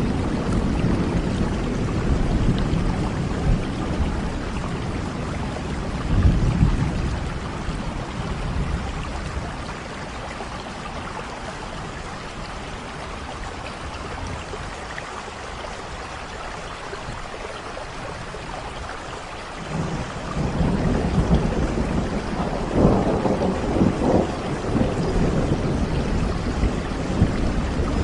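Steady heavy rain with rolling low rumbles of thunder. The rumbling dies down after about a third, leaving mostly rain, and builds again about two-thirds of the way through.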